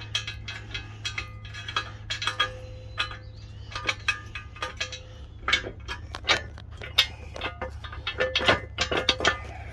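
Irregular metallic clinking and clicking of metal parts and tools being handled, over a steady low hum.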